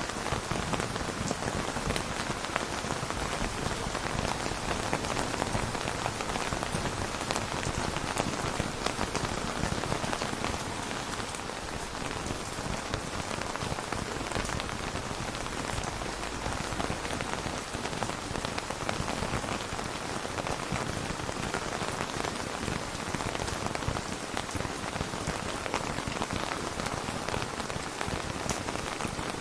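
Steady rain falling on a surface: an even hiss with a dense patter of individual drops, no thunder.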